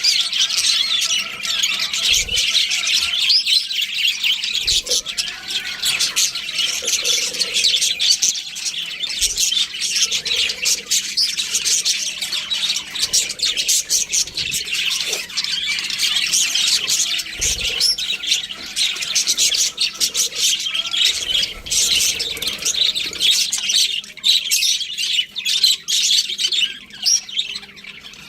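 Several budgerigars chirping and chattering, a continuous dense stream of rapid, high-pitched calls and squawks.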